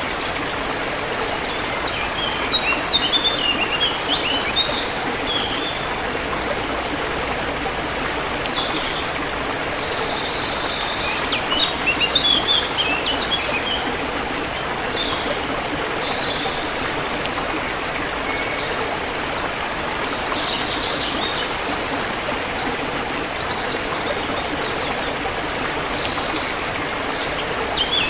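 Steady flowing stream water with small birds chirping and singing over it in short bursts of quick high notes, a few seconds apart.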